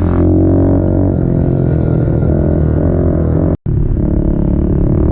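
Small motorcycle engine running at a steady drone, with the sound cutting out for a moment about three and a half seconds in.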